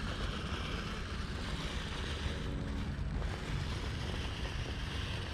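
Axial Capra RC crawler's electric motor and gear drivetrain whirring steadily as it crawls over a large rock, under a steady rumble of wind on the microphone.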